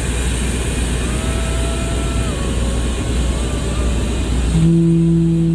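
Low engine and wind rumble, then about four and a half seconds in a ferry's horn begins a long, steady, deep blast, the usual signal of a ship leaving port.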